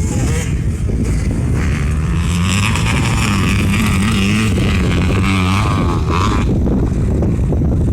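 KTM motocross bike engine running, its pitch wavering up and down. The higher part of the engine note drops away about six and a half seconds in.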